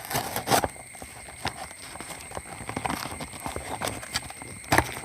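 A parcel being torn open and its packaging handled by hand: irregular crackles, rustles and knocks, with louder knocks about half a second in and near the end.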